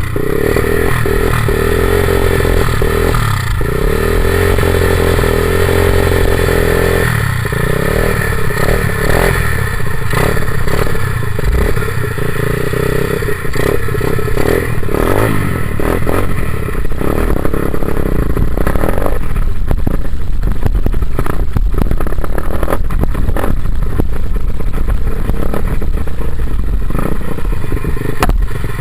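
Dirt bike engine running under a rider, held at fairly steady revs for several seconds, then rising and falling, with clattering and knocks over the rest of the ride.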